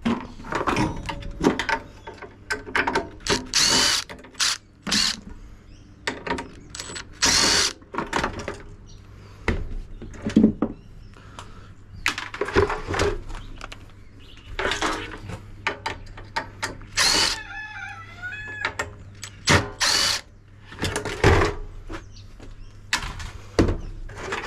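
Power drill run in many short bursts, with clattering and scraping of sheet metal, as a dishwasher door is taken apart.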